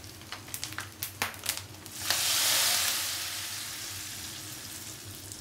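Food frying in hot oil in a pan, with scattered crackles and pops. About two seconds in, a sudden loud sizzle sets in and then slowly dies down.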